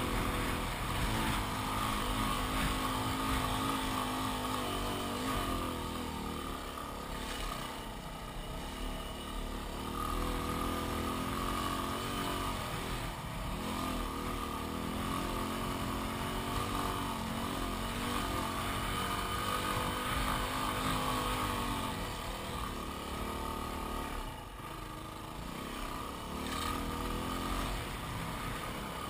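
Yamaha WR250R's single-cylinder 250 cc engine running under way, its note rising and falling with the throttle and dropping briefly a few times as the rider eases off.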